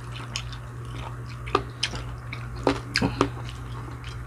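Close-up chewing and mouth sounds of someone eating, with irregular wet smacks and clicks, several bunched together past the middle.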